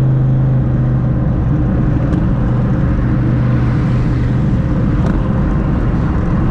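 Twin-turbo Mustang Cobra engine and exhaust droning at a steady pitch as the car cruises, over road noise. The drone eases about four and a half seconds in.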